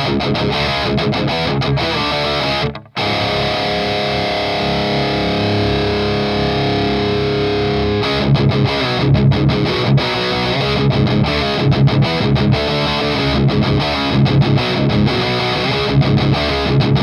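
Electric guitar through high-gain distortion playing heavy riffs. The choppy riffing breaks off sharply just under three seconds in, a chord is left ringing for about five seconds, and then rhythmic, chugging low-note riffing follows.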